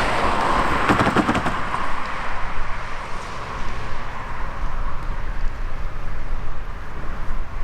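Freight train running with a steady low rumble and a broad hiss that eases off after the first couple of seconds, with a quick cluster of sharp knocks about a second in.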